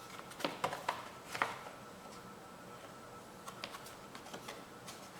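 Light clicks and taps of small parts and tools being handled during engine reassembly: a few sharper clicks in the first second and a half, then fainter scattered ticks.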